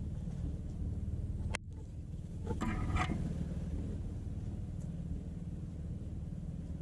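Steady low outdoor rumble, like distant road traffic. About a second and a half in there is a sharp click, and a second later a short louder sound.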